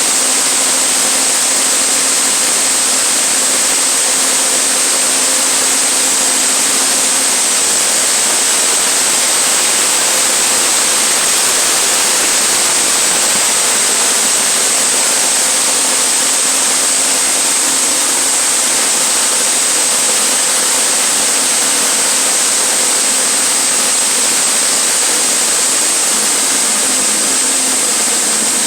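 Sawmill running steadily as its blade slabs through an oak log, a constant machine noise with a steady high-pitched whine over it.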